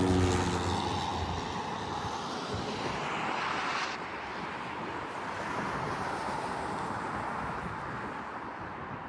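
Airplane passing low overhead and flying away, its engine roar a broad rush that fades steadily, losing its higher hiss about four seconds in.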